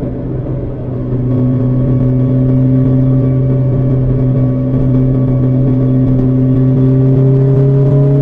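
BMW S1000XR's inline-four engine running through an Akrapovic exhaust under way, its pitch rising slowly and steadily as the bike gathers speed.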